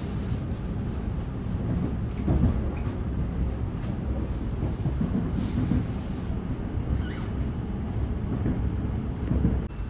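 Electric suburban train running along the track: a steady low rumble from wheels on rail, with a few louder knocks as it goes.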